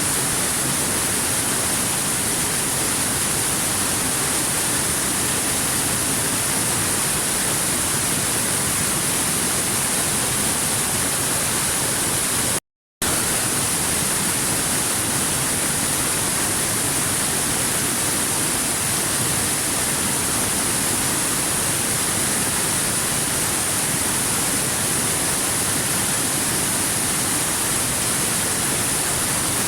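Steady rushing of a waterfall, an even hiss with no changes in it, which drops out completely for a split second about 13 seconds in.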